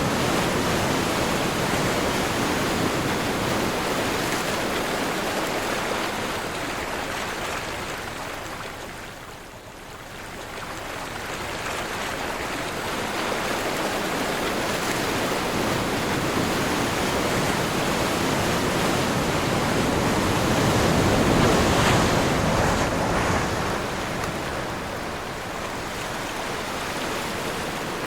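Sea waves surging in the wind: a continuous wash of surf that eases to a lull about a third of the way in, then builds to its loudest about three quarters through.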